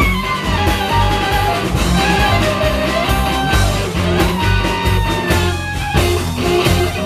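Live klezmer-punk band playing an instrumental passage: a bending lead melody over double bass and drums.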